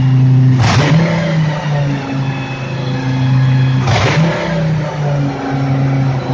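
Lamborghini Huracán GT3's 5.2-litre V10 running at a steady raised idle during its warm-up, broken by two short sharp bursts of noise, about a second in and again about four seconds in.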